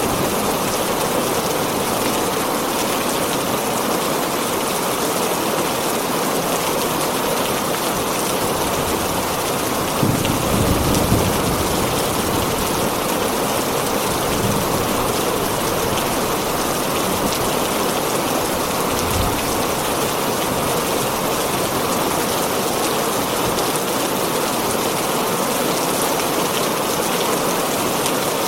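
Heavy rain pelting a tin roof in a steady, dense hiss. Low thunder rumbles briefly about ten seconds in, with a shorter one near twenty seconds.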